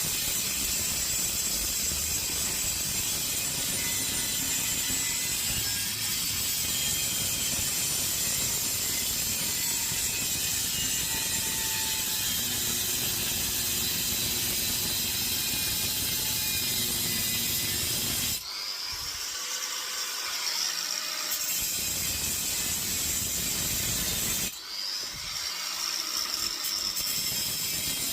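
Angle grinder with a new cut-off disc cutting into a compressor's casing: a continuous harsh grinding of disc on metal. Twice, about two-thirds of the way through and again near the end, the disc comes off the metal for a few seconds and the grinder's whine rises as it spins freely.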